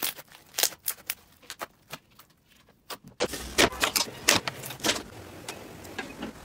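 Slime being squished and poked by hand, giving runs of sharp crackling and popping clicks; about three seconds in it changes to a louder clip with a steady hiss underneath, a dense burst of crackles and then sparser pops.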